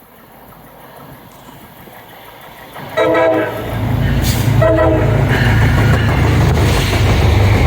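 A train approaches and sounds two short horn blasts about a second and a half apart. It then passes through at speed with a loud, steady rumble of wheels on the rails.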